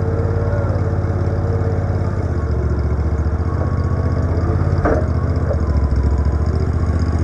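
An engine idling steadily; its low note shifts slightly about two seconds in, and a single sharp knock sounds about five seconds in.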